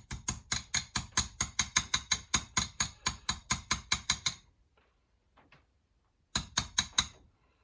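Light, rapid hammer taps on a steel Woodruff key, driving it into the keyway on the crankshaft taper, about four or five sharp metallic taps a second for about four seconds, then a pause and another short run of taps near the end.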